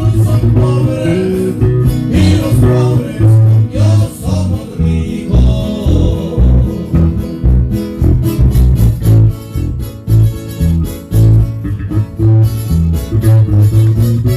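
Live trio music: plucked guitars playing over a steady bass line.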